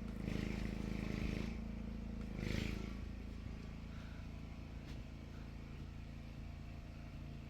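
An engine running steadily, louder for the first second and a half with a brief swell about two and a half seconds in, then settling to an even run.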